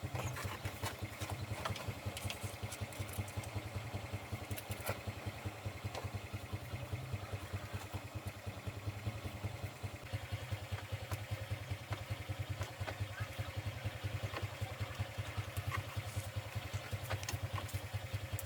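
A truck engine idling steadily, with a fast, even low pulse and a few light clicks over it.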